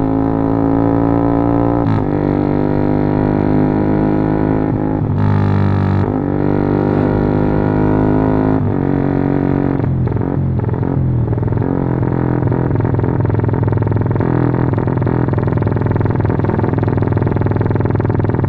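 Motorcycle with a Norifumi aftermarket racing exhaust running under way, a loud droning exhaust note. The pitch changes several times in the first ten seconds, then holds steady.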